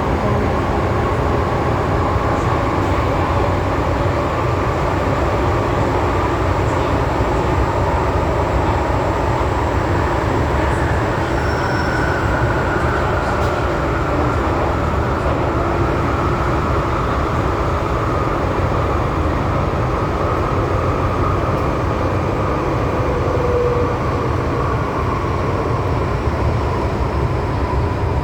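MTR M-Train electric multiple unit running in a tunnel, with a steady rumble from wheels on rail. A faint whine falls slowly in pitch over the second half as the train begins to slow for the next station.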